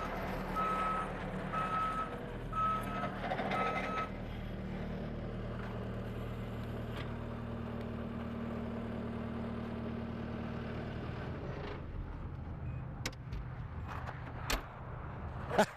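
Skid steer engine running while the machine backs up, its reverse alarm beeping about once a second, four times. The engine then runs steadily and drops off near the end, with a few clicks.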